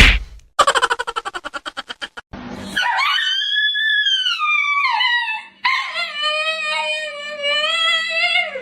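A dog howling: two long howls, the first rising and then falling in pitch, the second held fairly level. They come after a sharp knock and a rapid stuttering series of short cries.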